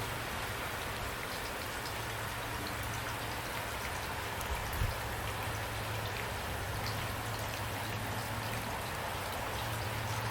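Steady rain falling, with individual drops ticking on a surface over an even hiss. A steady low hum sits underneath, and a soft thud comes about five seconds in.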